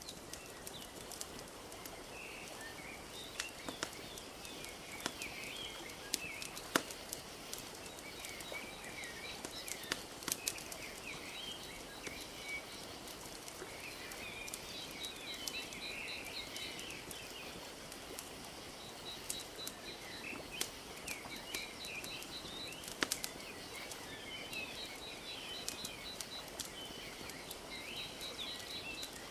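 Wood fire crackling with scattered sharp pops over a steady wash of gently lapping lake water. Small birds chirp throughout, and a rapid high trill repeats from about a third of the way in.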